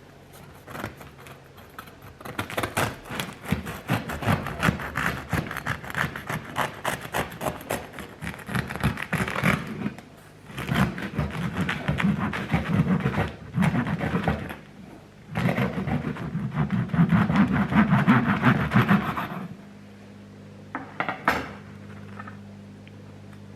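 A knife sawing through a freshly baked semolina loaf with a very crunchy crust, rasping and crackling in three spells of rapid strokes. A faint steady hum follows.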